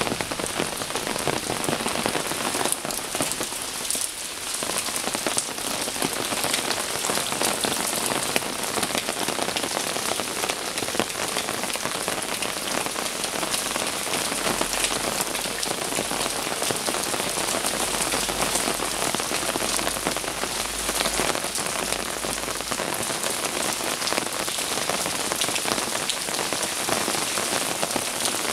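Steady heavy rain of a summer thunderstorm falling on stone paving and roofs, a dense patter of drops.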